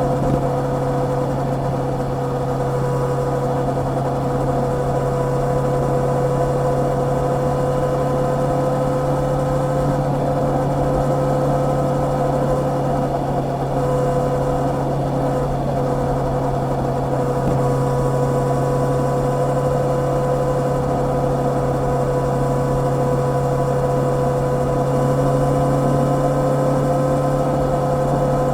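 Honda CB650R's inline-four engine running at a steady, nearly unchanging engine speed as the motorcycle cruises, with no gear changes.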